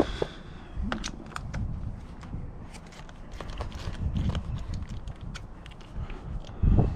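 Quarter-inch drive ratchet with a 5 mm Allen bit clicking irregularly as motorcycle engine cover bolts are undone, over low wind rumble on the microphone.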